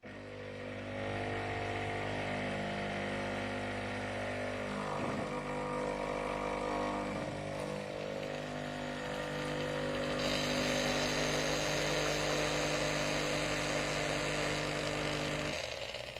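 Philips Baristina espresso machine pump running with a steady buzzing hum while brewing. About ten seconds in a hiss joins it, and the pump cuts off shortly before the end.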